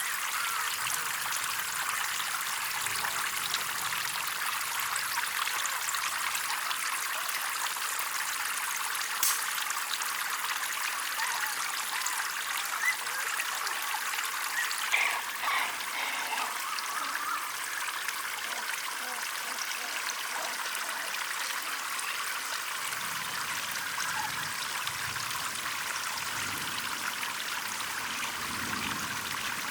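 Water trickling and running steadily, with a few faint knocks about a third and halfway through.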